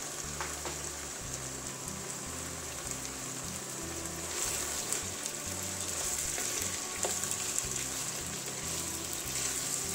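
Julienned carrots and browned beef sizzling in hot oil in a kazan, frying steadily for the plov's zirvak base. The sizzle gets louder about four seconds in, and a wooden spatula stirs through the pot near the end.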